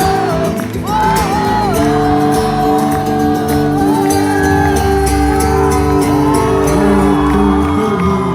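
Hindi indie rock band playing a wordless passage of a song live: held chords under a melody line that bends up and down, with steady cymbal strokes.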